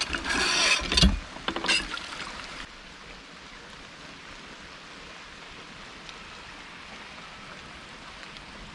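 Steady hiss of falling rain, after a few loud knocks and rustles in the first two or three seconds.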